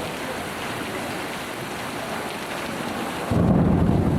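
Steady rain falling on water and surrounding surfaces. About three seconds in, a louder low rumbling noise abruptly takes over.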